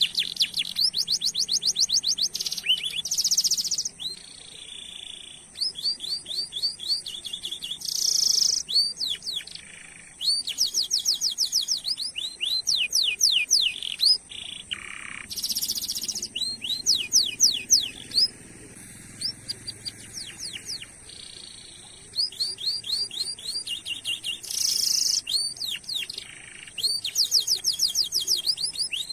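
Domestic canary singing: long rolls of rapid, evenly repeated sweeping chirps, broken by short pauses and changes of phrase.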